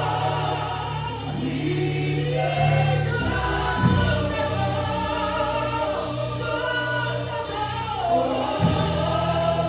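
Gospel worship song: a choir singing over instrumental backing with sustained low bass notes.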